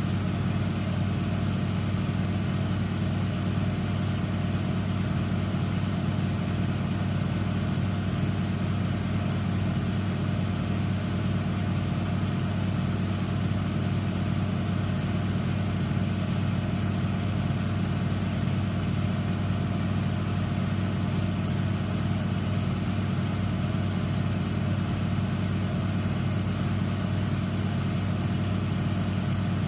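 Eudora Supernova EU 1001 front-loading washing machine in its final spin at 1100 rpm, the drum and motor running at a steady high speed with an even hum.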